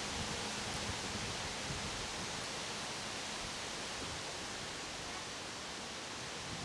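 Strong wind of about 40 mph blowing through tree leaves: a steady, even rush of rustling.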